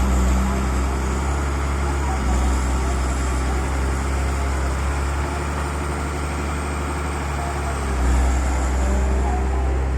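Excavator's diesel engine running steadily, getting louder for a moment about eight seconds in.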